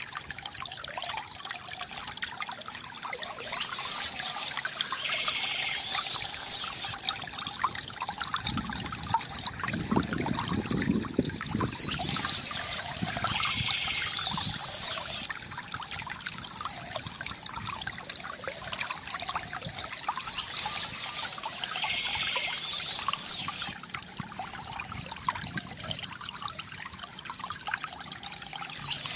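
Small stream trickling and gurgling steadily, with a heavier gurgle about ten seconds in, and birds singing in short phrases that recur roughly every eight seconds.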